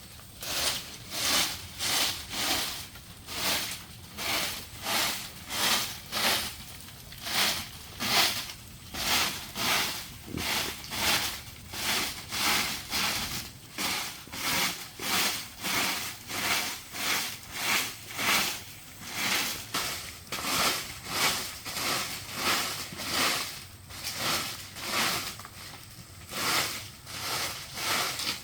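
A hand tool working bamboo in steady, rhythmic rasping strokes, about three every two seconds, like sawing or scraping back and forth.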